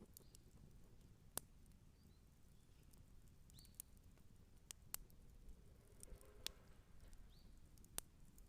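Wood campfire burning quietly, with sharp crackles and pops from the burning wood every second or two over a faint low hiss.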